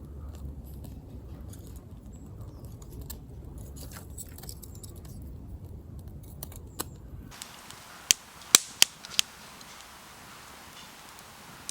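Low rumbling background with faint scattered ticks, then about eight seconds in a run of four sharp clicks within about a second.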